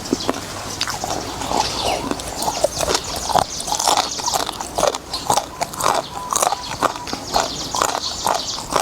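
Close-miked eating sounds of noodles in beef soup being chewed: an irregular run of short wet smacks and clicks.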